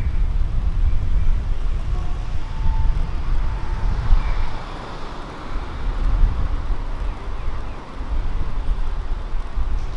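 City street ambience: a car passes along the road, its tyre and engine noise swelling and fading about halfway through, over a steady low rumble of wind on the microphone.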